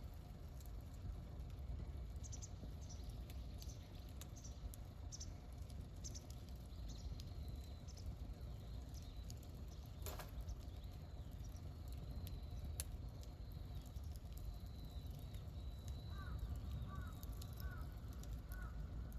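Wood campfire burning with scattered crackles and pops over a steady low rumble, one louder pop about halfway. Birds chirp repeatedly in the background, with a run of short calls near the end.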